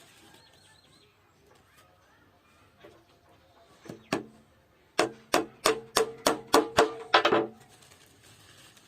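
Hammer blows on wood: two knocks about four seconds in, then a quick run of about nine strikes, roughly four a second, each with a short ringing tone.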